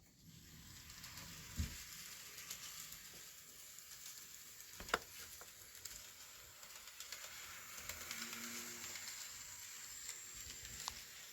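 Kato N scale diesel locomotive running on model track: a faint, steady whir and rolling hiss, with a few sharp clicks from the wheels over the rails.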